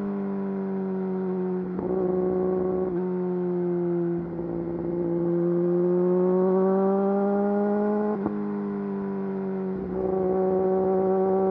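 Yamaha YZF-R6 inline-four engine running through an Akrapovič full exhaust system while riding at mid revs. The pitch dips briefly a few times, climbs steadily from about four to eight seconds in, then drops sharply.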